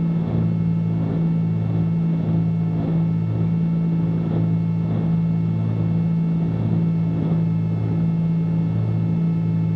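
The twin piston engines of a Cessna 310Q droning steadily in the cabin on final approach, with a slow even throb a little more than once a second.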